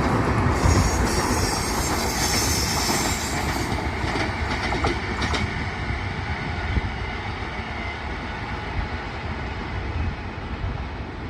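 Indian Railways train rolling past on a curve of track, its wheels clattering on the rails, with a few sharp clicks about five seconds in. The sound fades steadily as the train moves away.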